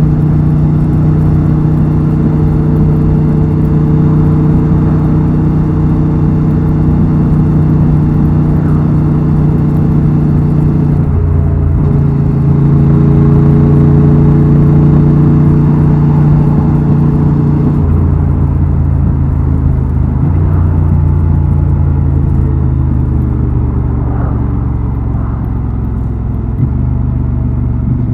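Honda Transalp XL750's parallel-twin engine and exhaust running steadily under way, with the engine note stepping in pitch a few times as the rider changes gear or throttle.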